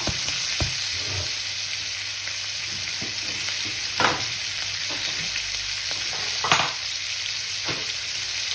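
Chicken pieces sizzling steadily in oil and butter in a frying pan, with a few sharp pops of spitting fat, the loudest about four seconds in and again at about six and a half seconds.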